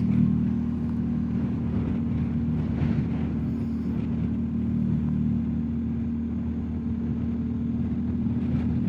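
BMW R1250GS Adventure's boxer-twin engine running at a steady cruise, with wind rushing past.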